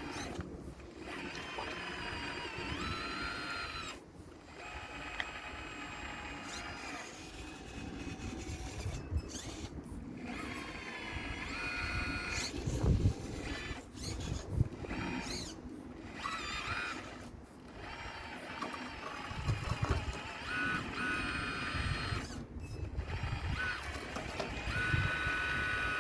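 RC model Caterpillar excavator working, its motors whining in stretches that rise and fall in pitch as the arm and bucket move, with knocks and thumps of stones being broken from a wall and falling.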